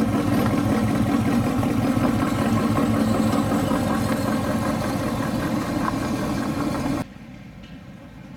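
Rat rod engine idling loudly and steadily with an even low pulse. About seven seconds in it gives way abruptly to a much quieter background.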